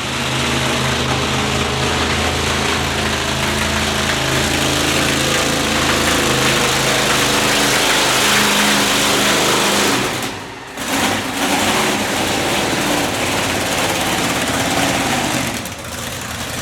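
Witch Doctor monster truck's engine running at high revs, loud and steady, with the pitch shifting as the throttle changes. About ten and a half seconds in, the engine drops away briefly and then comes back.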